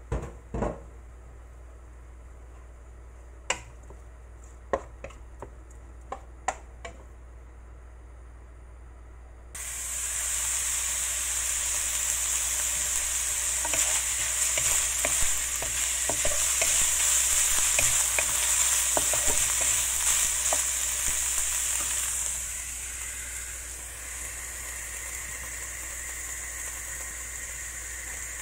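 Food sizzling in hot oil in a wok on a gas stove as it is stir-fried with a wooden spatula. After a few sharp clicks in the first seconds, the sizzle starts suddenly about ten seconds in. It eases to a quieter steady sizzle about twelve seconds later.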